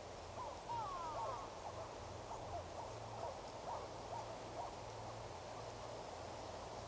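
A bird calling: a quick run of short whistled notes, each sliding up or down in pitch, for about four seconds before stopping. They sound over a steady hiss and a low, pulsing hum.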